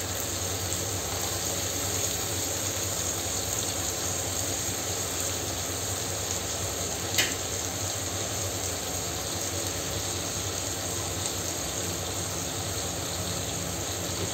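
Steady sizzling of mochai beans and vegetables frying in oil in a clay pot, with a faint hum under it and a single click about seven seconds in.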